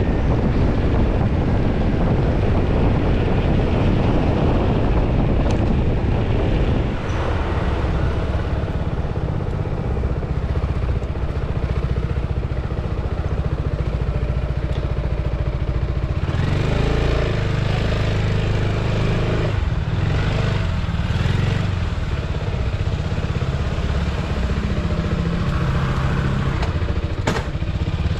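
Motorcycle being ridden, pulling away at the start, then a steady loud mix of engine and road noise.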